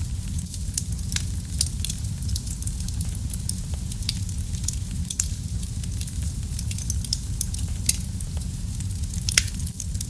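Wood fire burning in a fireplace, crackling with scattered sharp pops over a steady low rumble. One louder pop comes near the end.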